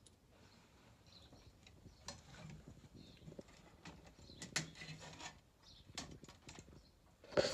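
Scattered light clicks and knocks of hand tools and metal parts being handled during reassembly of a stairlift's motor and gearbox, irregular and fairly quiet.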